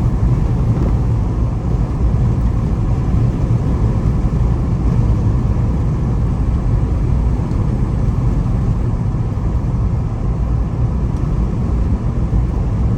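Steady road and engine noise inside a Jeep's cabin while driving, a constant low rumble.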